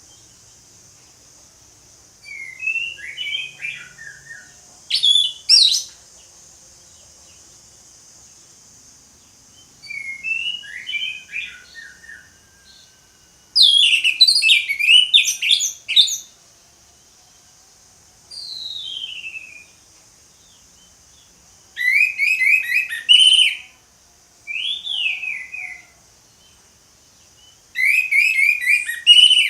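Orange-headed thrush singing: about eight short phrases of quick, varied whistled notes and falling slurs, with pauses of a second or more between them, over a faint steady high hiss.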